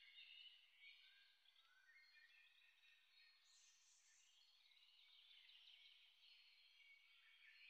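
Near silence, with faint birds chirping and trilling in the background.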